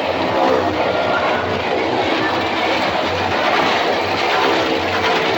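Motorcycles riding round the wooden wall of a well-of-death pit, their engines running in a loud, continuous rumble.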